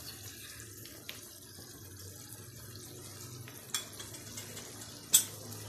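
Diced potatoes, onion and tomatoes sizzling steadily in a non-stick frying pan, with two sharp clicks near the end.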